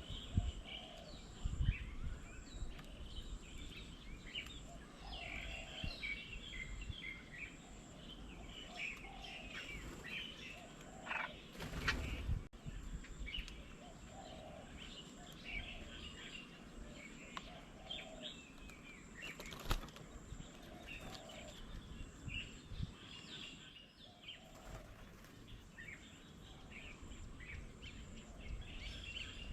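Several birds chirping and calling over and over, with a low background hum of the surroundings. Brief sharp knocks or rustles stand out about eleven seconds and twenty seconds in.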